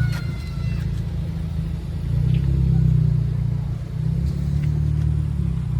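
Car-audio subwoofers playing heavy bass that rises and falls, swelling louder about two seconds in and again near the end; only the deep low notes come through.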